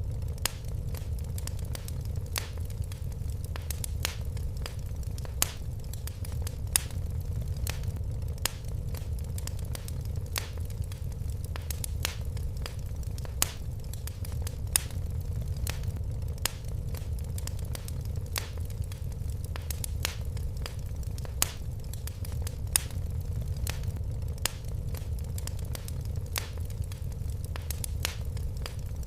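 Wood fire crackling in a fireplace: irregular sharp pops and snaps, a few each second, over a steady low rumble of the flames.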